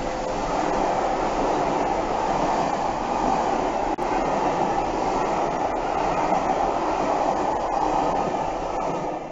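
A train of passenger coaches rolling past close by: a steady rush of wheel-on-rail noise that falls away at the end as the last coach clears.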